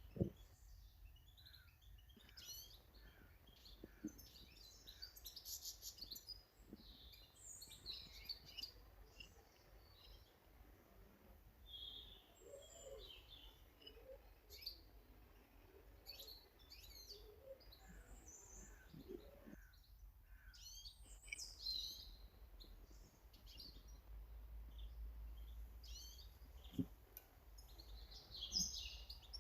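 Small garden songbirds chirping and calling faintly, with many short high notes scattered throughout from several birds.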